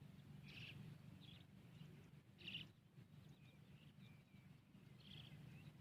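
Faint outdoor evening ambience: a short animal call repeats three times, about every two and a half seconds, with fainter chirps between, over a low steady hum.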